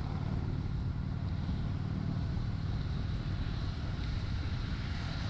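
Honda Shadow 750's V-twin engine running steadily under way, heard from the rider's seat, with a steady rush of air and road noise.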